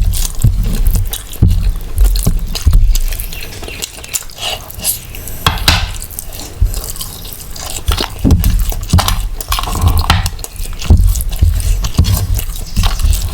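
Close-miked eating: wet chewing and smacking of mutton biryani and mutton curry, with irregular clicks and low thumps throughout.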